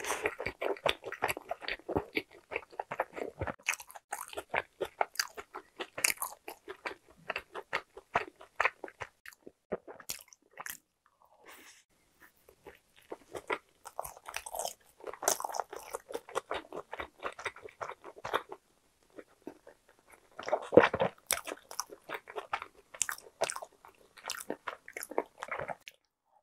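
A person biting and chewing a soft cream-filled pastry, with a steady run of wet, clicky mouth sounds. The chewing pauses briefly about halfway through, and a louder bite comes about 21 seconds in.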